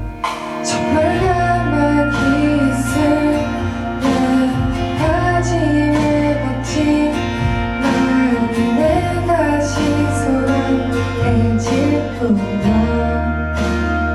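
Live pop music: a woman singing over guitar, bass and drums, with a steady beat.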